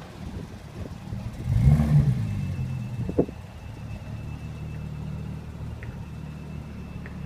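Porsche 911 GT3's 3.8-litre flat-six engine running at low speed while manoeuvring to park, with a brief rise in revs about two seconds in, then a steady low rumble.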